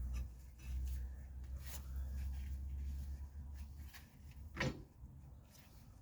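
Tools and parts being handled: a low rumble for the first four seconds or so, a faint click, then a single sharp knock near the end.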